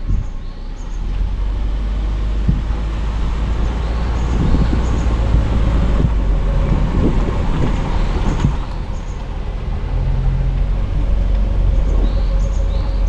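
Car driving along a road: a steady low rumble of engine and tyres with road noise, and a few faint high chirps now and then.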